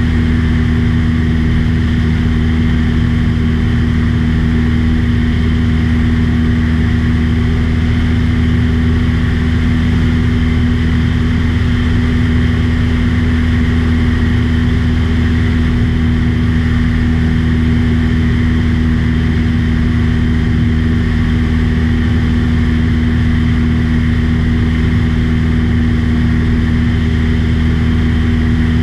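Propeller aircraft engine running at a steady cruise, a constant low drone with an even hum.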